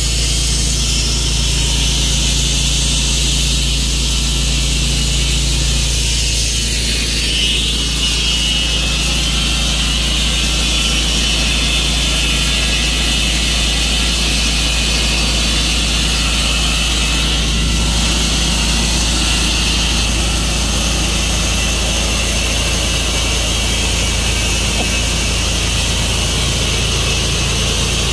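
Tru-Cut sawmill running steadily under power, its blade sawing through a maple log. A loud, even mechanical noise with a deep hum underneath.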